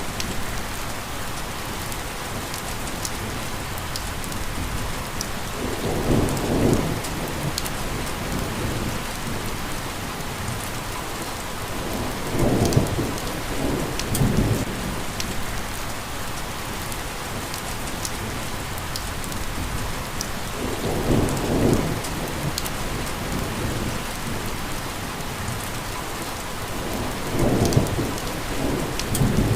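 Steady rain falling, with fine drop ticks scattered through it. A low rumble swells up five times, each for about a second.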